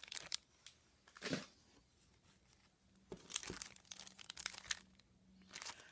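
Packaging crinkling and rustling as small craft supplies are handled, in several short bursts.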